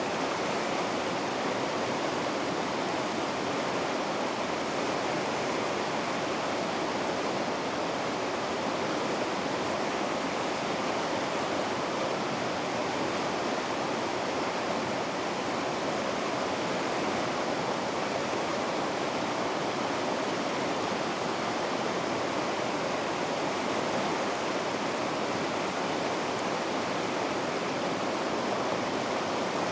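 Water of river rapids rushing steadily, an even, unbroken noise that holds the same level throughout.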